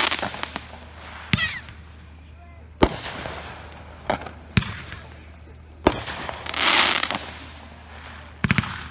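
A 200-gram consumer fireworks cake firing shot after shot, with sharp bangs about every second or so and a close pair near the end. A longer hissing burst comes about two-thirds of the way through.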